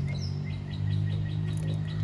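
A bird chirping in a rapid run of short, repeated high notes, over a steady low hum.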